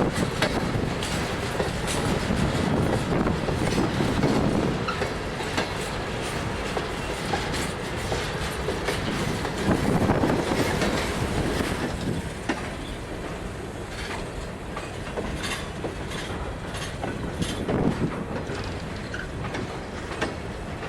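Freight train cars rolling past, their steel wheels clicking and clacking over rail joints, with a steady rumble that swells louder several times.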